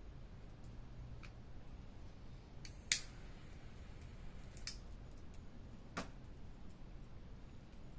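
Wood campfire crackling, with a few sharp pops spaced irregularly, the loudest about three seconds in.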